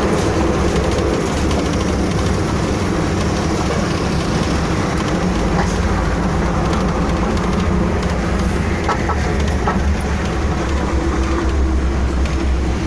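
Steady rumble and road noise of a moving vehicle, with a low engine hum underneath.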